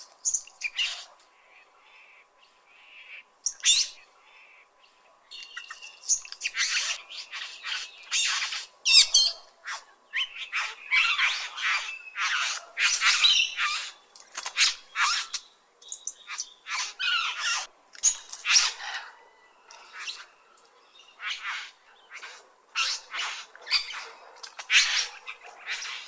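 Bird calls: many short chirps and squawks, a few at first and then in quick succession from about six seconds in.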